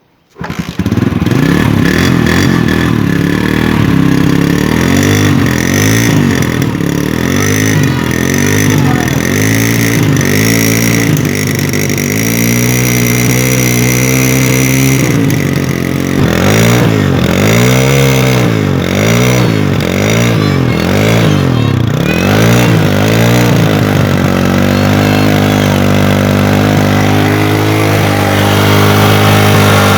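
Bajaj Caliber motorcycle's single-cylinder engine starting up cold about half a second in and running, with the throttle blipped repeatedly so the engine note rises and falls many times through the middle, then running more steadily near the end.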